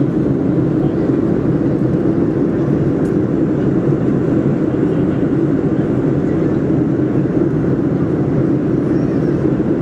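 Steady cabin noise inside a Boeing 737-400 in flight during descent: a constant low drone of engines and airflow at an even level.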